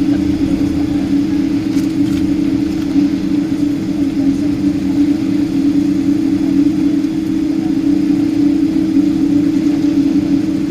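Boeing 777-200's jet engines heard from inside the passenger cabin: a steady drone with a strong, even hum over a low rumble.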